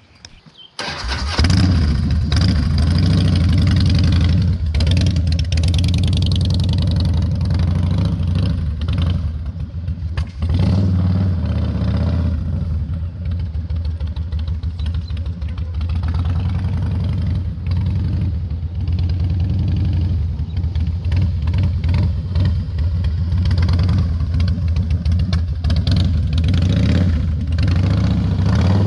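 Harley-Davidson V-twin motorcycle engine, loud and close, starting suddenly about a second in and then running at low speed with small throttle rises and dips through slow-speed manoeuvres.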